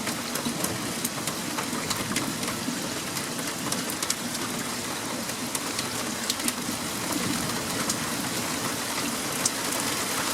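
Steady heavy rain falling, with many individual drops ticking sharply on hard surfaces close by. The rain cuts off abruptly at the end.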